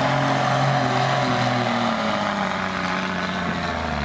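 Diesel truck engine running hard under load on a pull. It holds steady for about two seconds, then its pitch falls steadily over the rest of the run.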